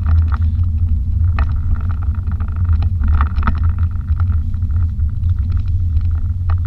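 BMW M5's twin-turbo V8 running under way, heard from inside the cabin: a steady, loud low drone mixed with road and tyre noise.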